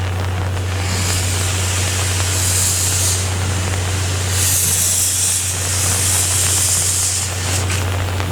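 C11 steam locomotive hissing steam in two long bursts, over a steady low hum.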